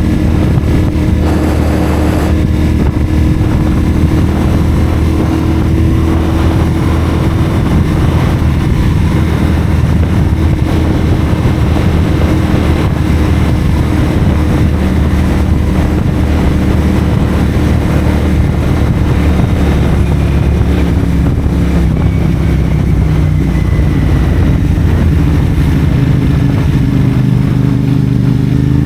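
CFMoto 450SR's parallel-twin engine through a Yoshimura AT2 slip-on exhaust, running at steady revs while the bike is ridden; the engine note eases down gradually in the last several seconds.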